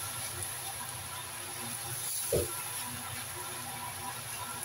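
Noodles frying in a wok with a steady sizzle as they are stirred and tossed with a spatula, with one dull knock a little after halfway through.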